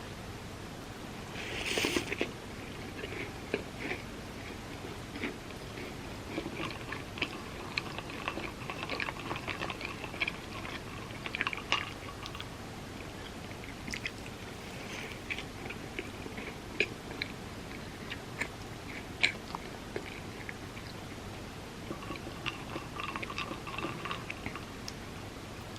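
Close-miked eating of a peanut butter dessert: a sharp bite about two seconds in, then chewing with many small wet mouth clicks and smacks.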